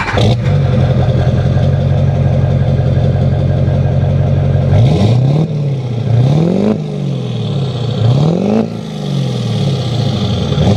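2002 Chevy Silverado 2500 HD's 6.6-litre Duramax diesel V8 idling steadily through an MBRP aftermarket exhaust, then revved about four times, each rev rising quickly and falling back to idle, the last starting near the end.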